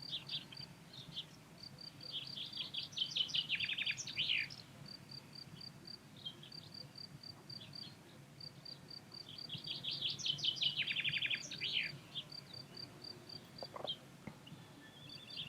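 A cricket chirping steadily in an even, high-pitched pulse, while a songbird sings two phrases of about two seconds each, several seconds apart, each with a fast trill.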